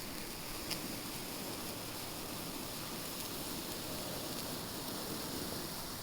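Wooden sparklers burning with a steady fizzing hiss and a couple of faint crackles in the first second.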